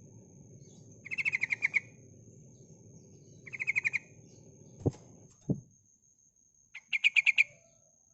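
Female yellow-vented bulbul (trucukan) calling: three short bursts of rapid chattering notes, each under a second long. Two dull knocks fall between the second and third bursts.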